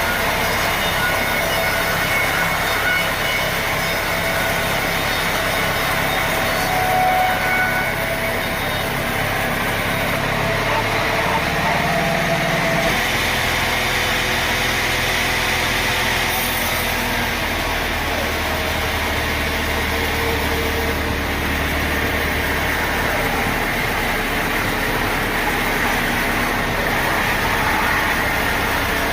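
Sawmill machinery running steadily, a continuous engine-like drone whose low tones shift about halfway through.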